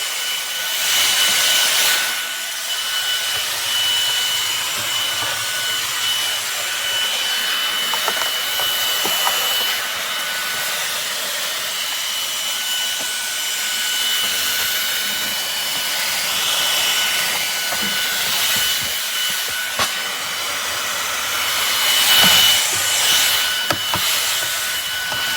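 MONSGA cordless stick vacuum's brushless motor running: a steady rush of air with a thin high whine, swelling louder about a second in and again near the end as it works over a surface.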